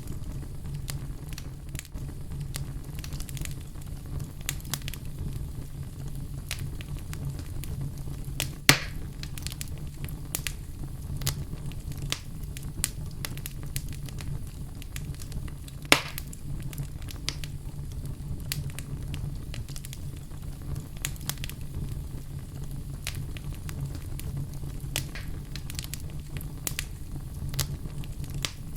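Wood fire crackling in a fireplace: a steady low rumble of flame under frequent small crackles, with two louder pops, one about a third of the way in and one past the middle.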